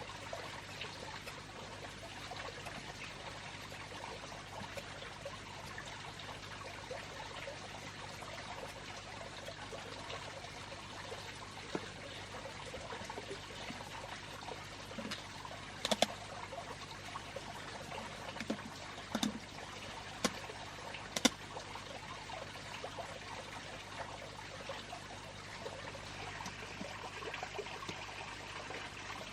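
Water trickling steadily, with a few sharp knocks about halfway through.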